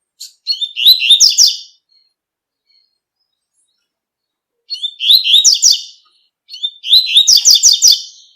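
Double-collared seedeater (coleiro) singing its 'tui-tui' song: three phrases of rapid, high, repeated notes, the first about a second long near the start, then two more in quick succession from about five seconds in.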